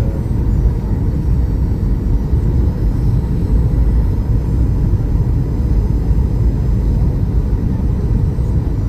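Passenger jet airliner in flight, giving a steady, loud low rumble of engines and airflow with faint steady tones above it.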